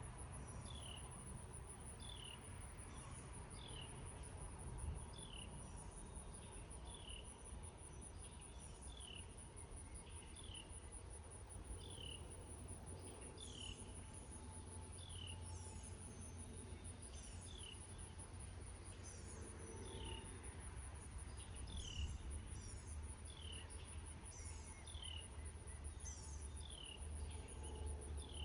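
Meadow insects, crickets, keeping up a continuous high-pitched trill, while a bird repeats a short, downward-sliding chirp about once a second, over a faint low rumble.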